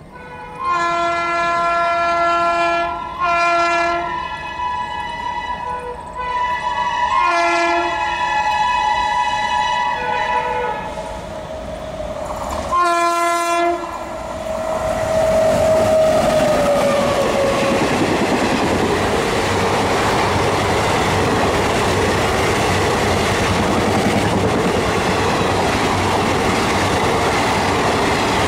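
Indian Railways locomotive horn sounding several long and short blasts as a train approaches. The train then passes at speed, a loud steady rushing with clickety-clack of wheels on the rails, while one tone drops in pitch as it goes by.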